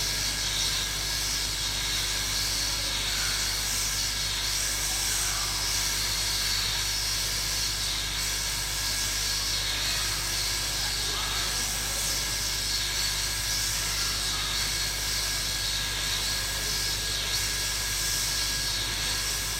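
Hot-air rework gun blowing a steady hiss of hot air, on straight-nozzle airflow setting 5 at about 350 °C, onto a phone logic board to melt the solder under a glued chip before prying it off. A constant low hum runs beneath it.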